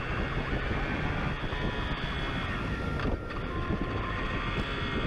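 Police motorcycle running at speed, its engine under heavy wind rush on the onboard camera's microphone.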